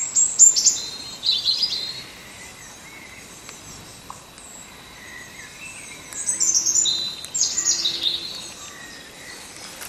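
A songbird singing two short, high-pitched phrases that fall in pitch, one right at the start and another about six seconds in.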